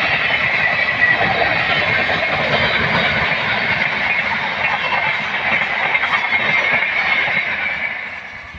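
Indian Railways express train running past at speed, its wheels clattering steadily on the rails; the noise dies away near the end.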